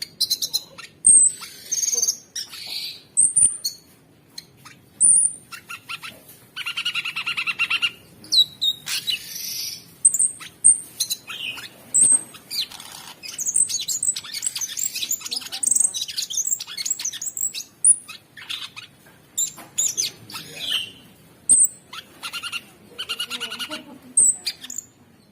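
Cucak sungkok songbird singing a fast, unbroken stream of high chirps and short whistles, mixed with rattling runs of rapid notes.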